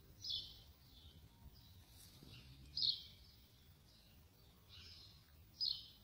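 Small birds chirping: short high calls, three louder ones about two and a half seconds apart with fainter chirps between, over a faint steady low rumble.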